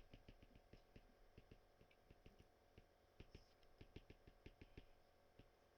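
Faint, irregular clicks and taps, several a second, from a pen writing.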